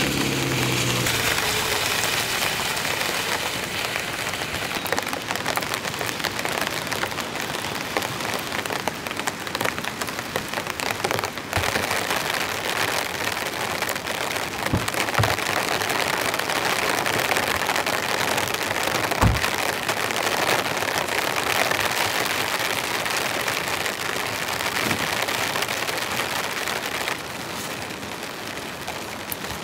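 Heavy rain falling steadily on a surface, with a few sharp single knocks scattered through it. The rain eases slightly near the end.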